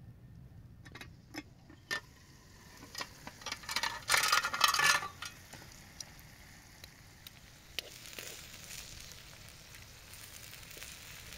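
Metal tongs clicking and scraping against a steel pan, loudest about four to five seconds in, while chicken balls and tomato slices fry over charcoal with a steady sizzle that grows toward the end.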